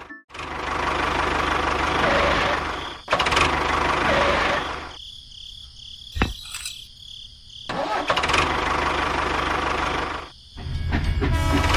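Small engine running in several short stretches that start and stop abruptly, with a quieter gap in the middle.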